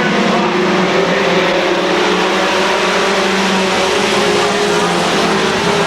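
Race truck engines running at speed on a short oval, several engine notes layered together at a steady level.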